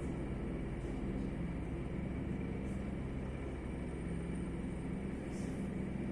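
Helicopter rotor beating steadily with a fast, even chop, echoing across mountains.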